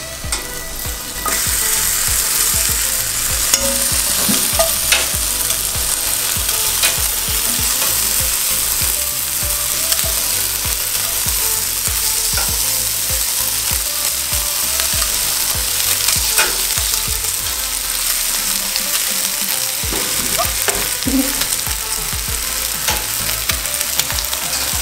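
Chicken wings sizzling as they fry in a hot frying pan, the sizzle jumping louder about a second in as the wings hit the pan, with a few short metal clicks.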